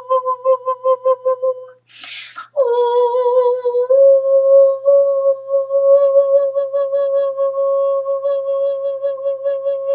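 A woman's voice toning a single held note, pulsed rapidly and evenly. She takes a quick breath about two seconds in, then resumes on a slightly higher sustained tone.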